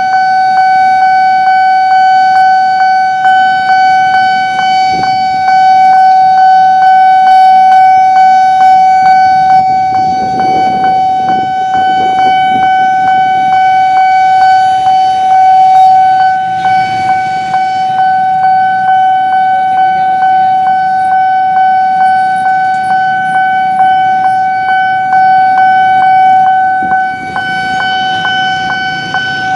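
Railway level-crossing warning alarm sounding: one steady, high electronic tone held without a break, with regular ticking over it. A low rumble of passing traffic or a train swells around ten to thirteen seconds in.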